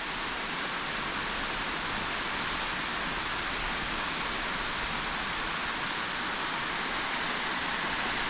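Steady rush of water spilling over a dam.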